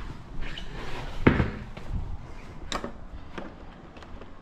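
A few knocks and clicks of hard objects being handled; the loudest is a thump about a second in, with sharper clicks near the end.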